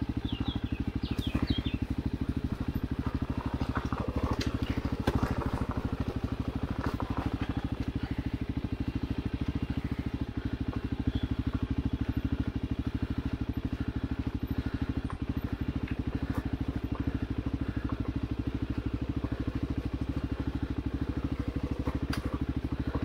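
Single-cylinder dual-sport motorcycle engine running steadily at low revs with an even, fast pulse and no revving.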